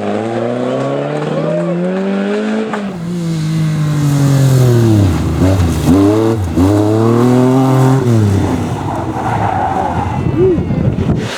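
Rally car engines revving hard, the pitch climbing and dropping several times as the cars accelerate, shift and lift off. The sound changes abruptly about three seconds in, where a second car takes over.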